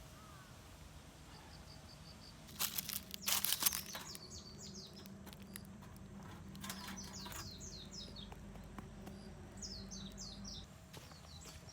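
Small birds calling in several short series of quick, falling high notes, with a brief clatter about three seconds in.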